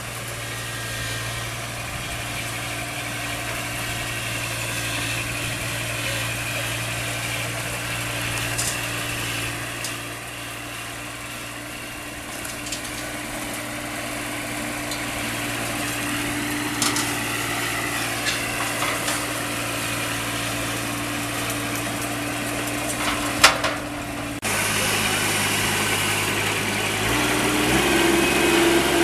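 Combine harvester engine running steadily at a low, even speed, with a single sharp knock a little over twenty seconds in. Shortly after, the engine note changes abruptly, then steps up near the end.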